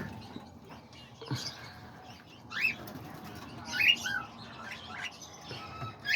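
Small aviary birds chirping now and then: a few short, rising chirps spread through the middle and second half.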